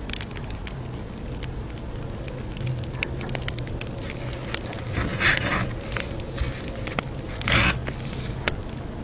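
Campfire crackling: scattered sharp pops and snaps over a steady low rumble, with two brief louder swishes about five and seven and a half seconds in.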